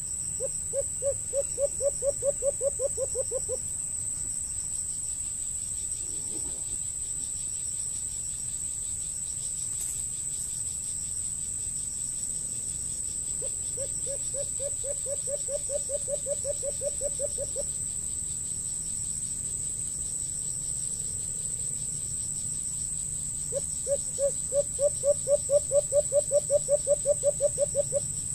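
A bird calling from the trees: three low, rapid pulsed trills of about seven notes a second, each three to four seconds long, one about a second in, one halfway through and one near the end. A steady high-pitched insect drone runs underneath.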